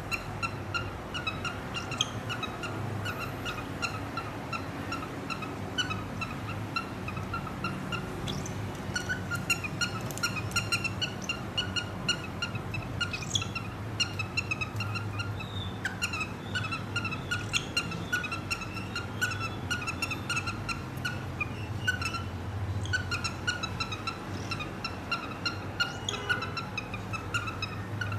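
Cockatiels chirping in quick strings of short, same-pitched notes that go on throughout, over a steady low hum.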